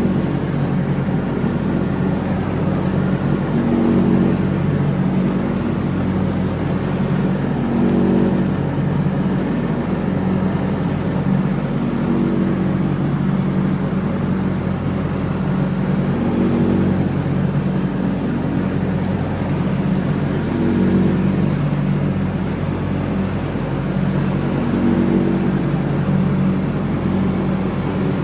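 John Deere X304 lawn tractor running steadily while mowing, its engine note swelling and easing about every four seconds.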